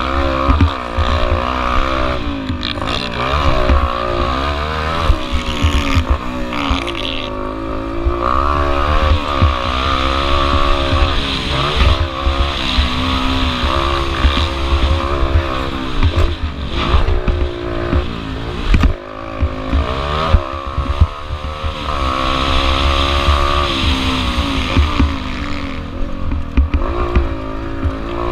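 Yamaha TT-R125L pit bike's small four-stroke single-cylinder engine being ridden hard, its pitch rising and falling again and again as the throttle opens and closes, with wind buffeting the microphone.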